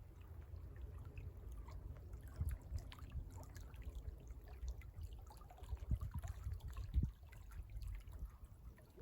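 Water trickling and splashing in small irregular drips and laps, over a low steady rumble.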